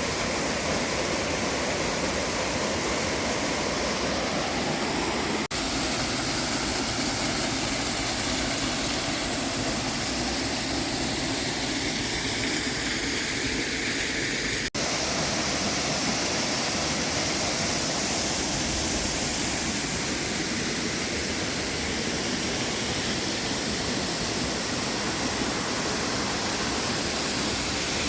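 Waterfall's steady rush of falling water, with two momentary breaks about five and fifteen seconds in.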